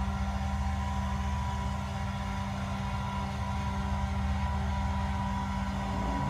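Steady low machinery hum of a cruise ship heard inside a cabin near the waterline, a deep rumble with a level drone on top.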